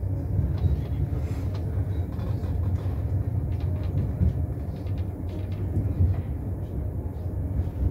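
Interior cabin noise of the Enterprise inter-city train running along the line, heard from inside a De Dietrich passenger carriage: a steady low rumble with a few faint clicks.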